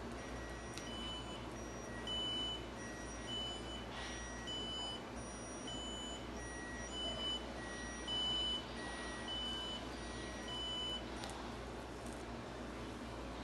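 Toy fire truck's electronic siren from a small speaker: two beeping tones alternating high and low, stopping about eleven seconds in.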